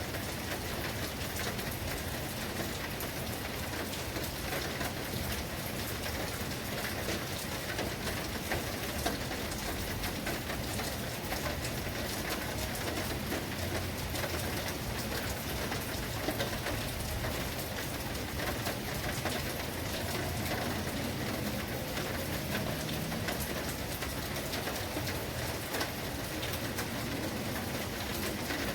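Steady heavy rain falling and pattering on surfaces, an even hiss with many small drop impacts.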